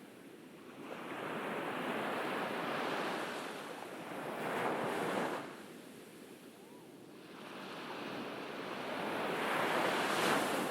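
Ocean surf on a beach: two waves break and wash in, each a rushing swell that builds over a few seconds and then falls away, about five seconds apart.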